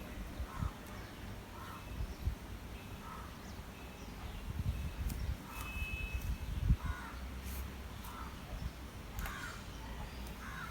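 Repeated short bird calls in the background, with a few low thumps, the loudest about two-thirds of the way in.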